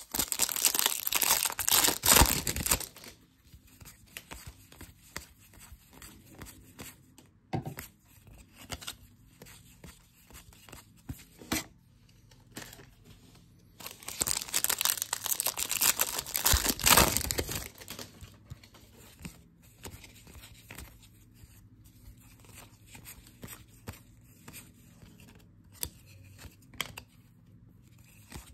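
Foil baseball card pack wrappers being torn open and crinkled, in two loud spells near the start and about halfway through, with the soft flicks and rustles of cards being handled in between.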